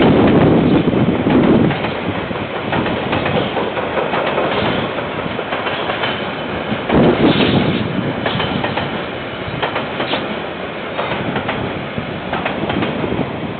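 KiwiRail train wagons rolling past on the track, with the clickety-clack of wheels over the rails. Loudest in the first two seconds and again about seven seconds in, through a security camera's microphone that cuts off the high end.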